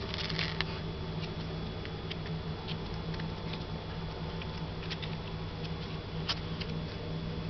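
Toy poodle puppy's paws pattering, its claws clicking irregularly on the floor, over a steady low hum.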